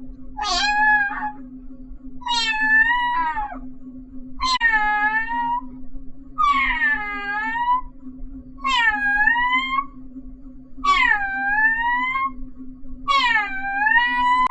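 Meowing in the drawn-out, pleading way of a cat begging for food: seven long meows, each about a second long and about two seconds apart, over a steady low hum.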